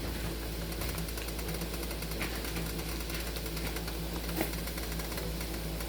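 Chicken and vegetables sizzling faintly in a pan on the stove, with a faint rapid crackle over a steady low hum and a couple of light clicks.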